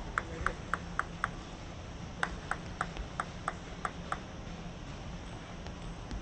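Table tennis ball bouncing repeatedly with short, light clicks at about three to four a second: a run of five, a pause, then a run of seven, typical of a player bouncing the ball before serving.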